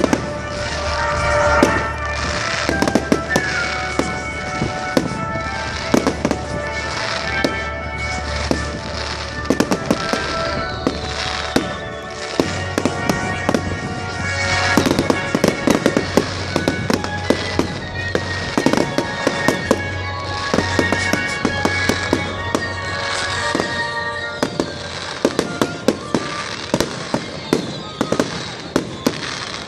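Fireworks display: rapid bangs and crackles of bursting shells, many in quick succession and thickest in flurries about halfway and near the end. Music with a steady bass plays underneath.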